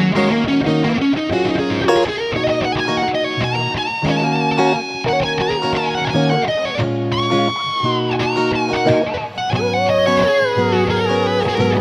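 Instrumental break of a soul/R&B song: an electric guitar plays a lead line with bent, gliding notes over held chords and bass.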